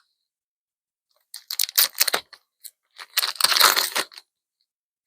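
Foil trading-card booster pack wrapper crinkling and being torn open, in two bursts of crackly rustling, the second about three seconds in and the longer of the two.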